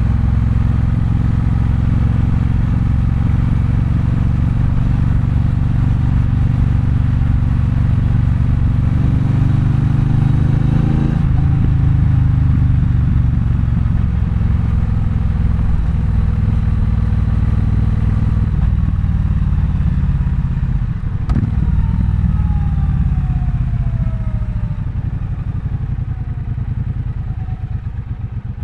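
Triumph Bonneville Bobber's 1200 cc parallel-twin engine under way: it pulls up in pitch for the first ten seconds or so, then holds a steady cruise. About twenty seconds in it comes off the throttle and winds down as the bike slows, with a single sharp knock just after.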